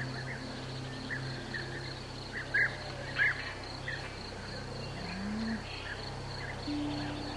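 Short bird chirps, irregular and a few a second, the loudest two about halfway through, over a steady high-pitched insect drone.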